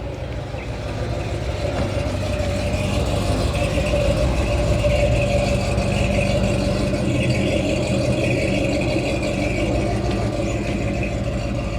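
A car engine running steadily at low revs as the car draws closer, growing louder over the first few seconds, then easing off slightly near the end.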